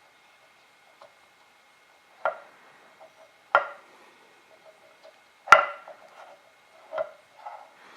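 Hand tools and small parts knocking and clacking against each other while a pull starter is worked on: four sharp knocks, the loudest about five and a half seconds in, with a few lighter ticks between.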